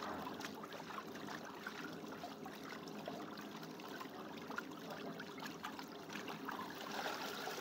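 Water trickling and splashing, with many small clicks scattered through it.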